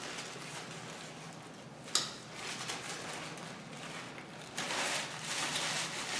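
Eating sounds close to the microphone: a sharp click about two seconds in, then a stretch of crackly chewing or handling noise near the end.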